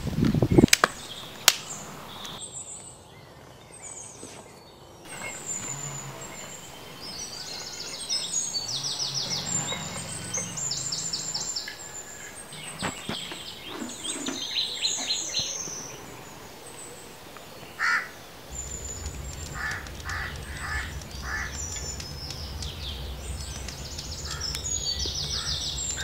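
Small birds chirping and trilling over and over, with a few sharp knocks of sticks being laid in the first couple of seconds. A low steady hum comes in about two-thirds of the way through.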